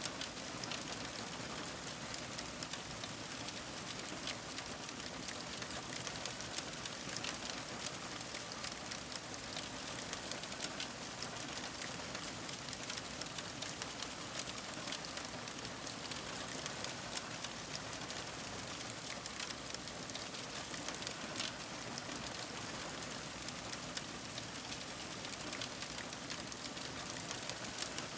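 Fire crackling: a steady hiss dotted with many small, sharp pops.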